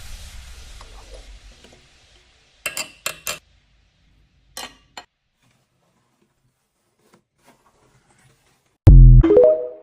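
A few light metallic clinks, then near the end a sudden loud low thump with a short ringing tail.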